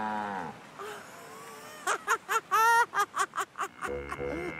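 A cow moos in one long, drawn-out call that ends about half a second in. Later comes a quick run of short, high voice-like sounds, and near the end a low steady hum sets in.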